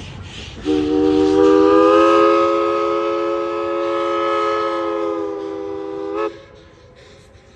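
Train's chime whistle sounding one long blast of several tones together, about five and a half seconds long, rising slightly in pitch as it opens and cutting off sharply.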